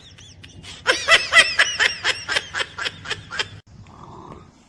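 Laughter: a rapid, even run of short laughs, about five a second, that cuts off suddenly about three and a half seconds in.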